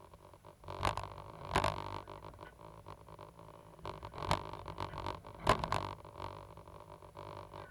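Cat 320GC hydraulic excavator at work: its engine and hydraulics run steadily, broken by four short, louder bursts.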